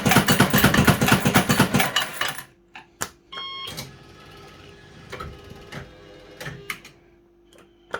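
Firecracker fruit machine running: about two seconds of rapid, loud mechanical clattering, then short electronic beeps and scattered clicks over a steady hum.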